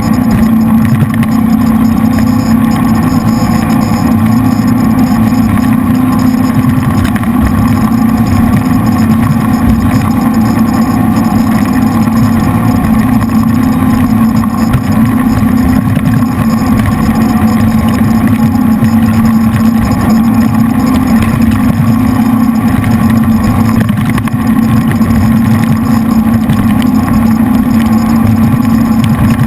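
Jet boat's three V8 engines running loud and steady under way.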